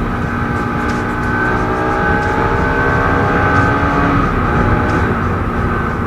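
Motorcycle engine running at road speed under heavy wind noise on the microphone, the engine note climbing slowly as it accelerates.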